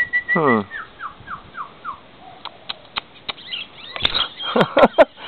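A lovebird chirping: a run of about five short falling chirps, then a few louder, harsher calls from about four seconds in.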